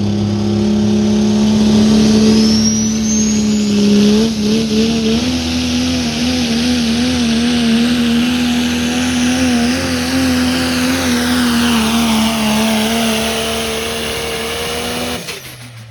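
Pulling truck's engine held at high revs under full load as it drags the sled, a steady note that wavers up and down from about five seconds in. The engine cuts off suddenly about fifteen seconds in, at the end of the pull.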